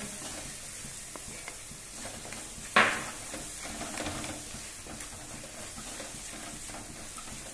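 Onion and spice masala frying in oil in a kadai, stirred and scraped with a wooden spatula: a steady sizzle under repeated scraping strokes, with a single louder knock about three seconds in. The masala is just starting to stick to the bottom of the pan.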